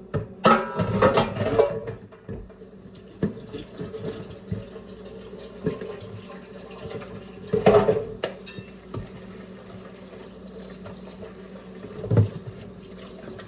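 Water running and splashing at a kitchen sink, with brief clatters and rustles about half a second in, near eight seconds and near twelve seconds, over a steady low hum.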